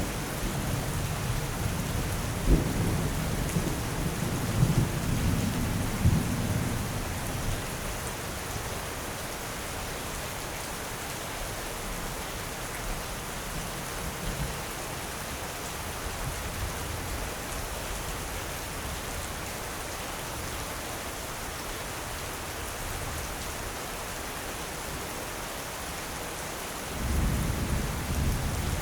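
Steady heavy rain with rolling thunder: low rumbles with a few sharp cracks in the first several seconds, easing to rain alone, then thunder rumbling up again near the end.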